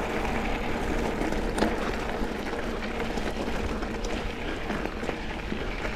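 Mountain bike riding along a dirt double-track trail: steady rolling and rushing noise, with scattered small clicks and rattles.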